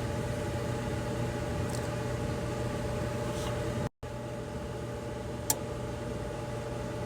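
Pool filter pump motor running with a steady hum. The sound cuts out for a moment about four seconds in, and there is one short click later.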